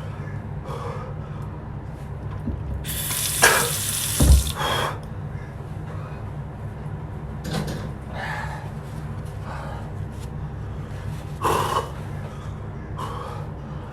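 A man breathing hard through his mouth from chili burn, with several sharp breaths and one long hissing exhale a few seconds in, over a steady low hum.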